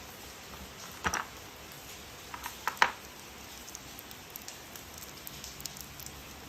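Plastic toy train parts being handled and fitted together. A sharp click comes about a second in, then a quick run of clicks near three seconds, the loudest, followed by light ticks.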